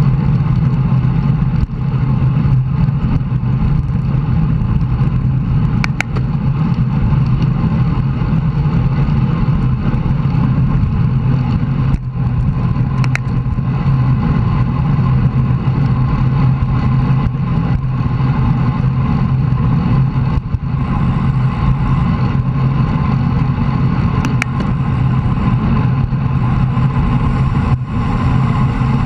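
Steady wind rush and road noise on a bicycle-mounted camera during a ride, with a few sharp clicks.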